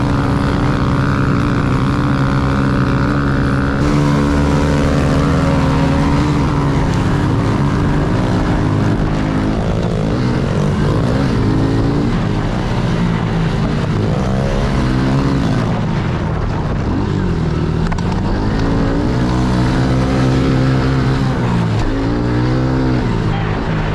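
Small single-cylinder four-stroke pit bike engine racing on a motocross track. Its revs hold steady at first, then rise and fall over and over as the throttle is opened and closed.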